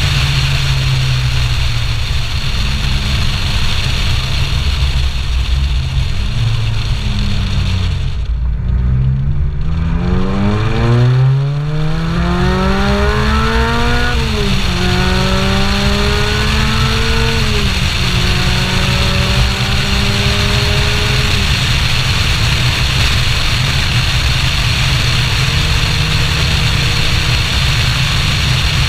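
Supercharged Lotus Elise 111R's Toyota 2ZZ-GE four-cylinder engine accelerating: revs climb steeply from about ten seconds in, drop sharply twice at upshifts with a rising pull between them, then ease off. Heavy wind rumble on the externally mounted microphone throughout.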